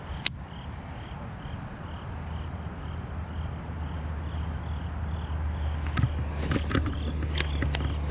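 Steady low hum of distant highway traffic, with a small animal's short high call repeating about three times a second. A sharp click comes just after the start, and a scatter of clicks and knocks near the end.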